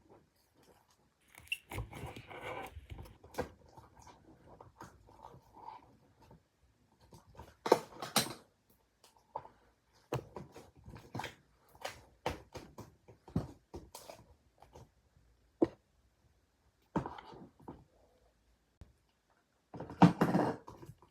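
Slime being squished and stretched by hand: irregular sticky clicks and pops, with louder wet squelching bursts about two, eight and twenty seconds in.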